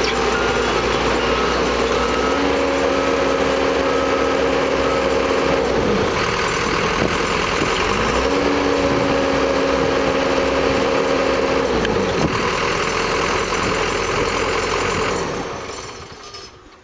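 Skid steer engine running loud and hard, its pitch rising and holding for about four seconds twice, first about two seconds in and again about eight seconds in, as it strains under load to work the machine free. The sound fades away near the end.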